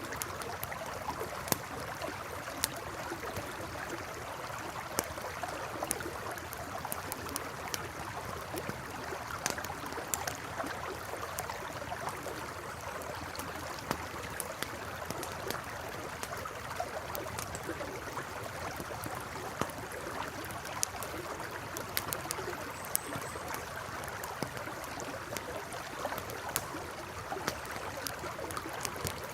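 A river flowing with a steady rushing, burbling sound, while a campfire crackles with frequent irregular sharp pops.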